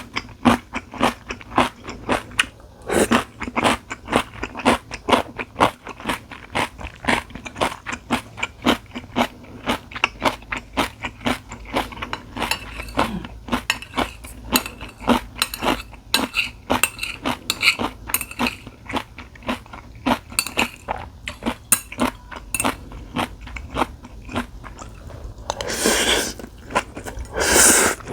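Close-miked eating sounds: a person chewing with rapid wet clicks and crunches, with cutlery clinking against the dishes. Two longer noisy bursts come near the end.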